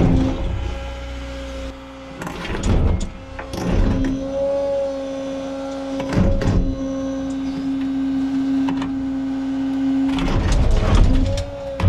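CAT 315 excavator running with a steady hum while its bucket scrapes and knocks against buried rock in the ground, in several bursts: at the start, around two and a half and three and a half seconds in, around six seconds, and a longer spell near the end.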